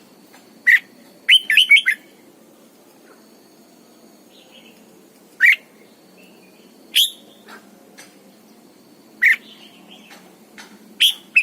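Red-whiskered bulbul singing short, sharp phrases: a quick run of four or five notes about a second in, then single brief calls every couple of seconds.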